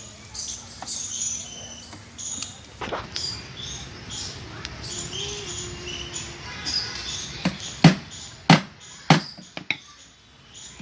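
Small birds chirping in many short, high calls. About five sharp knocks come in quick succession near the end.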